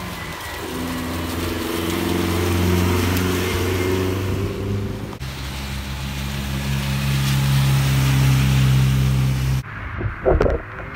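Classic sports car engines driving past one after another on a wet road with tyre hiss: first an engine note that climbs as it pulls away, then a deeper steady engine drone from a second car. Near the end the engine sound stops abruptly and a few sharp knocks follow.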